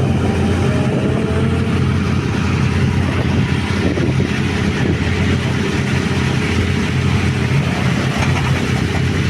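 Rally car engine idling steadily, with a low even note and no revving.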